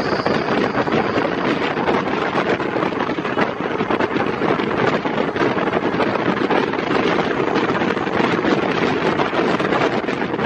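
Wind buffeting the microphone over the steady running noise of a moving passenger train, heard from the coach's open door or window.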